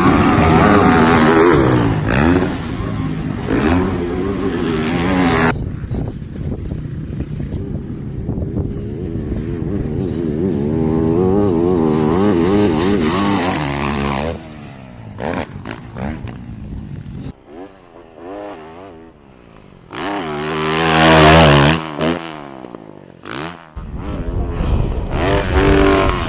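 Dirt bike engines revving hard at racing speed, the pitch climbing and dropping with throttle and gear changes, with several abrupt changes from one bike to another. The loudest burst of revving comes about three quarters of the way through.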